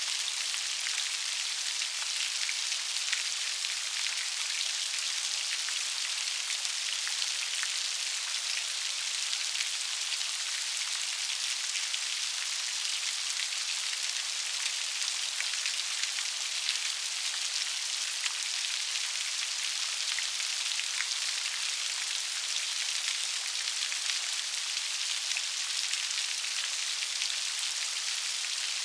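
Steady rain falling, a continuous even hiss with many small drop patters.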